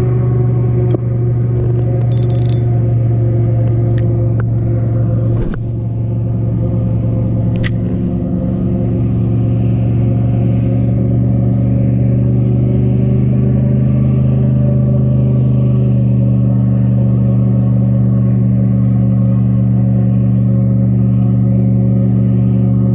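A loud, steady low drone at a fixed pitch, like a motor running, with a few small clicks and knocks in the first eight seconds.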